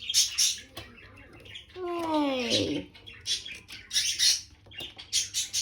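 Indian ringneck parrot giving several short, scratchy, high calls.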